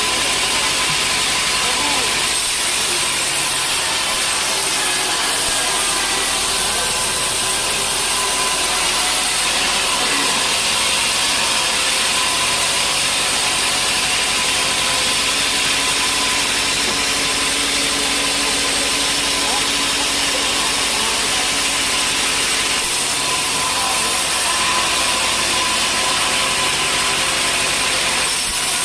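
Sawmill saw running and cutting through timber, a loud, steady machine sound with a high, hissing edge and a thin steady whine.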